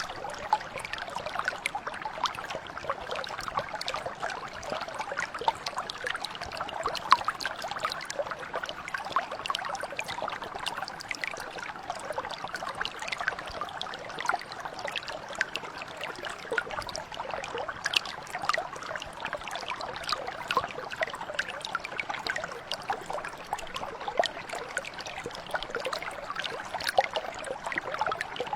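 Mountain brook flowing steadily over stones, a constant babble with many small trickles and splashes.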